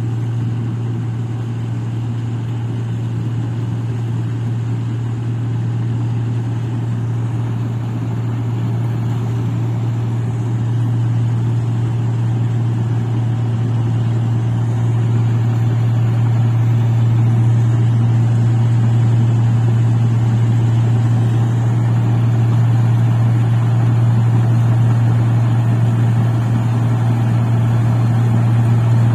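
Engine of a rice paddy machine running steadily with a constant low drone, slowly growing louder.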